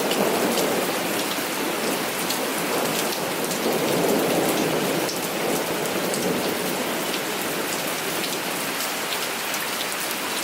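Heavy rain falling steadily, with many single drops ticking sharply close by over a dense wash of rainfall.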